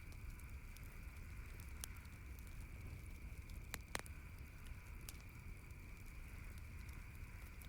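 Campfire crackling softly, with a handful of sharp pops, the loudest about four seconds in, over a steady faint high-pitched tone.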